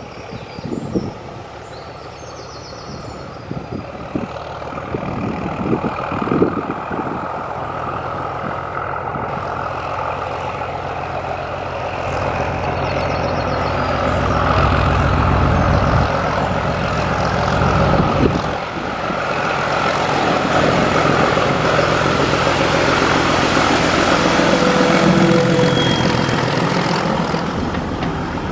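Diesel-hauled train running on the rails: the engine of Class 31 D5631 and the wheels of the Mk1 coaches. The sound grows louder over the first half, with scattered clicks and a heavier low rumble from about halfway.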